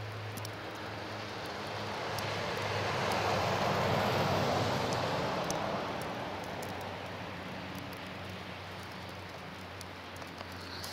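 Car driving on a highway: a steady engine and road hum that swells to its loudest about four seconds in and then fades.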